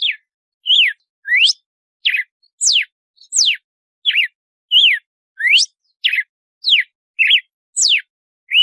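Red-cowled cardinal (galo-de-campina) singing an 'açoite' (whip) song: a steady series of loud, clear whistled notes, about one and a half a second, each a quick sweep, some rising sharply, some falling.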